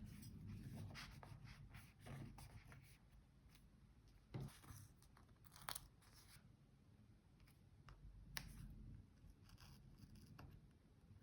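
Faint paper-crafting sounds from journal decorating: paper rustling and tearing, with a few sharp small clicks, the clearest about four and a half, five and three-quarters, and eight and a half seconds in.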